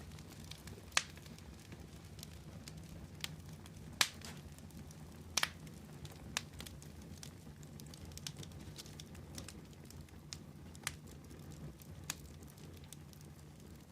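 Wood fire burning: a steady low rumble with irregular sharp crackles and pops, a few seconds apart, the loudest about one, four and five and a half seconds in.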